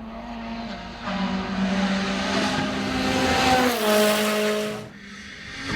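Rally car engine running hard at high revs with tyre and gravel noise, its note stepping up in pitch about three and a half seconds in, then dropping away near the end.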